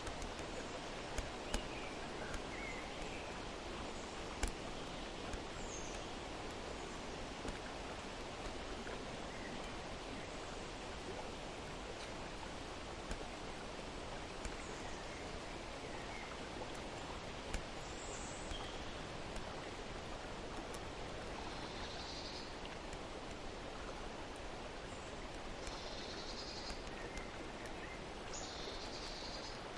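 A steady rush of running water, with short bird chirps scattered throughout and several close together near the end. A few faint taps come early on.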